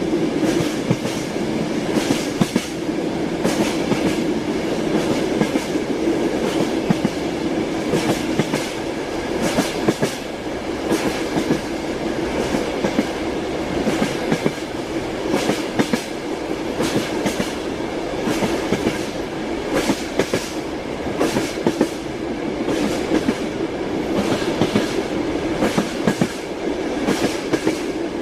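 Train wheels clacking over the rail joints in a steady run of uneven knocks, over the continuous rumble of a moving railway carriage.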